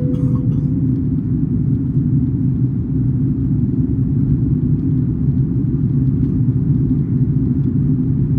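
Steady low rumble of engine and airflow noise inside the cabin of an Airbus A330-200 airliner descending to land, with a short electronic tone at the very start that fades within about a second.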